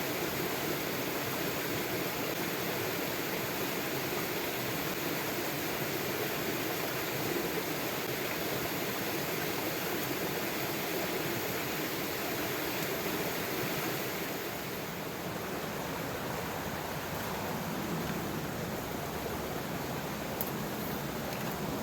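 Steady rushing water from the river current and heavy rain, easing slightly about two-thirds of the way through.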